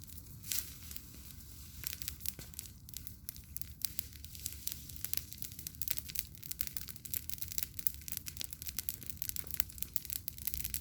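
Bonfire crackling: a dense, irregular run of sharp pops and snaps over a steady low rumble.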